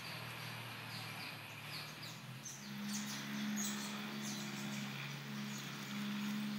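Small birds chirping repeatedly in the trees over a steady outdoor hiss, with a low steady hum joining about two and a half seconds in.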